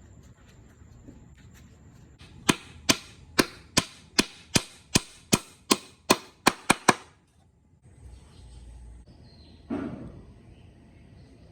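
Hammer striking wood, about a dozen sharp blows in a steady run that quickens toward the end, then one softer knock near the end.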